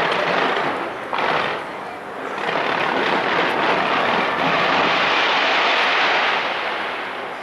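Taipei 101 New Year fireworks going off continuously: a dense, steady rush of noise, with a sudden fresh burst about a second in, easing off near the end.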